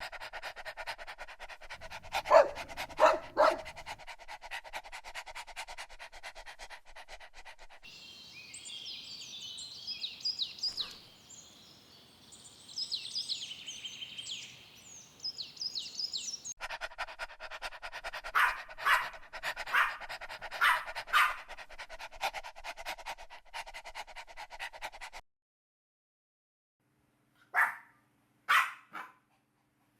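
Dogs barking in short bursts, with a stretch of high-pitched puppy yelping in the middle. The sound breaks off into silence near the end, followed by two last barks.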